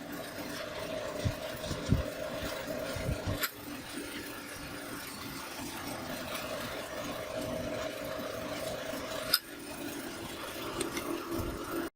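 Rubbing and scraping of hand-tool work over a faint steady hum, with a few low knocks in the first few seconds and two sharp clicks, one a few seconds in and one near the end.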